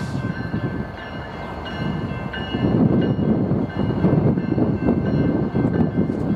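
Approaching BNSF freight train led by diesel locomotives (an EMD SD70ACe ahead of GE ES44s): a steady low rumble of engines and wheels that grows louder about halfway through, with faint steady high tones above it.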